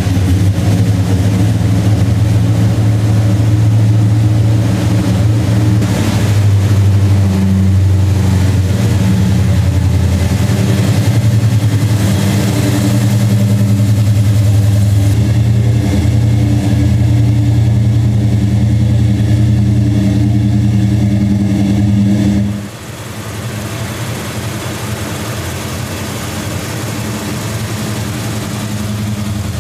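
A 1969 Plymouth Road Runner's 383 cubic-inch big-block V8 idling steadily, freshly started, with a deep, even exhaust note. About 22 seconds in the sound drops suddenly to a quieter idle.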